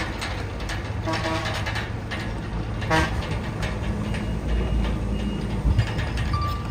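Crawler bulldozer's diesel engine running steadily, with short squeaks and metallic clanks from its tracks, a louder one about three seconds in.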